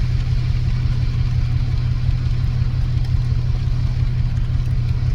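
Van engine idling, a constant low rumble, with a steady hiss of surf and rain over it.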